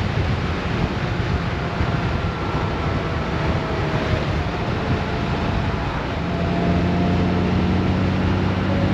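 Wind rushing over the microphone of a moving Honda Gold Wing motorcycle, with the low hum of its flat-six engine underneath. The engine hum grows louder and steadier about six seconds in.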